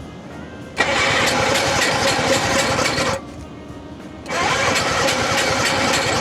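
Hercules W2000 Wankel rotary engine being cranked over twice with the choke on, each try lasting about two seconds. It does not catch.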